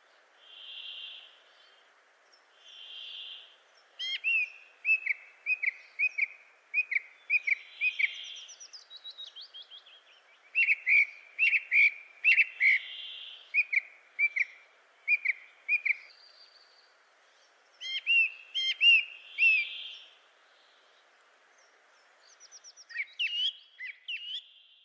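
Wild birds calling: soft whistled notes come every few seconds among fast runs of short, sharp chirps, with the chirping busiest in the middle.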